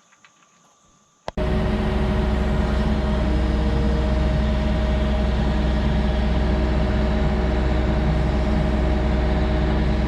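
Skid steer's diesel engine running steadily, cutting in abruptly about a second in after near quiet.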